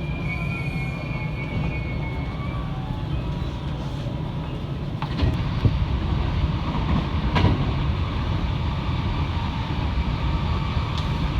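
Electric train running on the rails, a steady rumble with a few short knocks about five and seven seconds in. A thin high squeal is held for the first two seconds or so.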